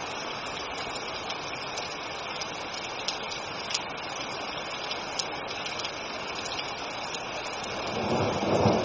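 Steady heavy rain with scattered sharp drip ticks. In the last second or so a rumble of thunder swells up.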